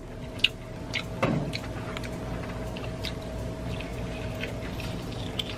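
Wet chewing and mouth clicks from a person eating soft lobster meat, over a faint steady hum.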